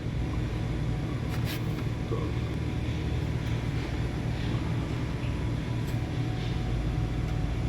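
2015 Ford Taurus V6 engine idling steadily, with a low hum and a few faint ticks. The car has a cylinder 5 misfire that the mechanic says shows on the highway, while it runs fine standing still.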